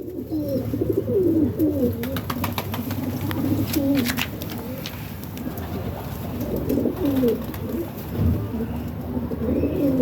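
Several pigeons or doves cooing at once, with overlapping wavering coos throughout and a cluster of sharp clicks a couple of seconds in, over a low steady hum.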